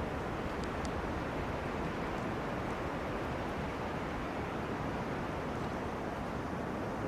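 Wind blowing through forest trees, a steady even rushing, with a couple of faint high ticks about a second in.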